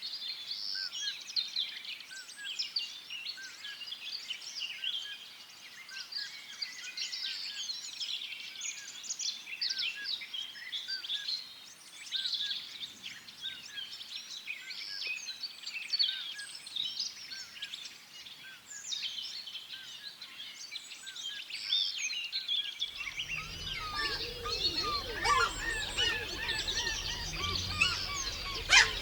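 A dense chorus of many songbirds chirping and whistling over one another. About three quarters of the way in, a low rumble comes in along with lower, honking bird calls.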